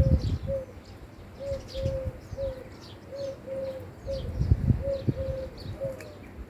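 Birds calling outdoors: a steady run of short, low, hooting notes repeating about twice a second, with higher chirps from small birds over them. A few low thumps come about four and a half to five seconds in.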